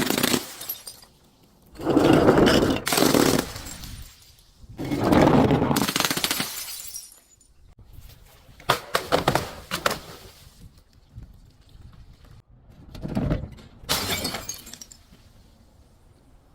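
Glass bottles being smashed and crushed in several separate bouts: two long loud crashes early, a run of sharp cracks about halfway through, then two shorter crashes.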